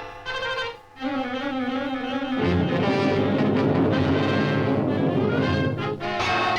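Orchestral cartoon score led by brass. A chord is held early on, then the full orchestra comes in about two and a half seconds in.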